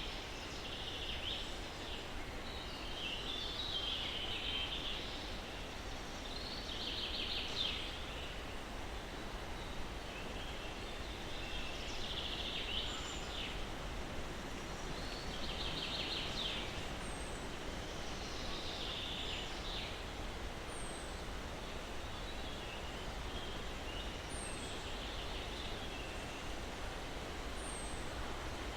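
Steady breeze noise with birds calling over it: repeated short trilled phrases and, in the second half, a high, short falling note about every four seconds.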